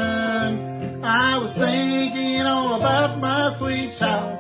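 Singing in a bluegrass song with acoustic guitar accompaniment, the voice holding notes that bend between phrases.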